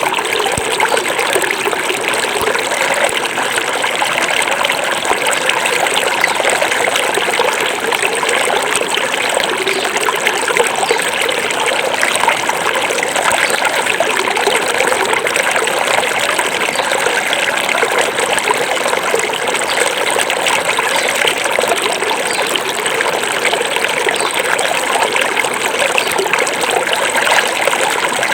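Small forest river flowing steadily over stones, a continuous trickling and babbling of running water.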